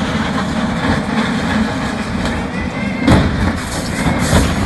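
Heavy vehicle rumble and clatter, with a heavy thud about three seconds in and another about four seconds in.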